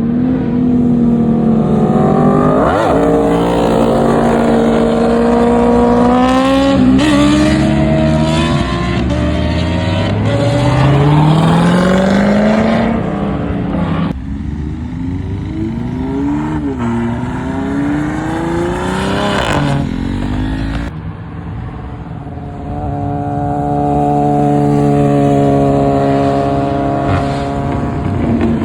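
Car engines revving and accelerating, several at once, their pitch climbing and dropping. One long climb in pitch comes about ten to thirteen seconds in, as a car pulls away under throttle.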